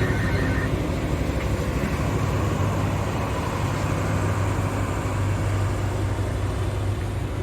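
Train passing close by: a steady low hum with dense rumbling noise from the wheels and cars on the track.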